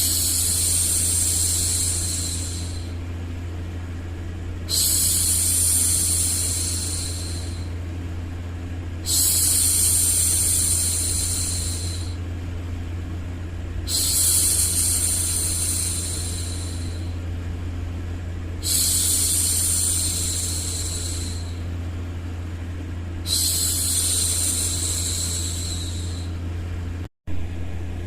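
A woman's voice making long, soft 'shhh' hushing sounds, six in a row, each lasting two to three seconds and coming about every four and a half seconds. Underneath is a steady low white-noise rumble. The sound cuts out completely for a moment shortly before the end.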